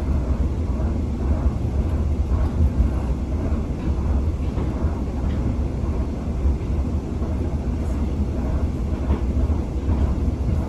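Tsugaru Railway stove train running at speed, heard from inside a passenger coach: a steady low rumble with faint irregular knocks and rattles.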